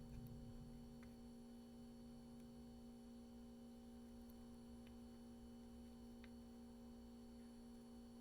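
Near silence: a steady low electrical hum, with a few faint ticks.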